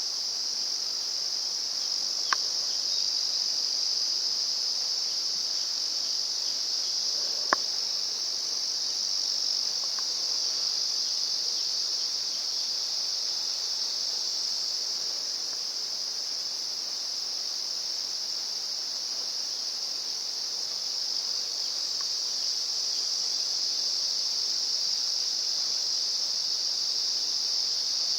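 Insects chirring in a steady, unbroken high-pitched drone. Two sharp clicks cut through it, about two seconds in and again more loudly about seven and a half seconds in.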